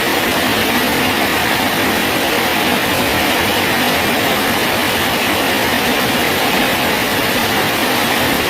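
Steady rain falling on a bridge, an even unbroken hiss.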